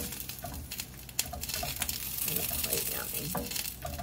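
A vegetable stir-fry of bok choy, leeks and carrots sizzling in a frying pan, with a few sharp clicks and knocks.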